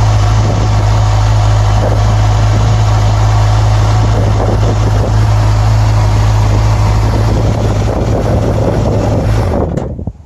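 Kawasaki Z1000SX's inline-four engine idling steadily on its standard exhaust, then switched off about nine and a half seconds in.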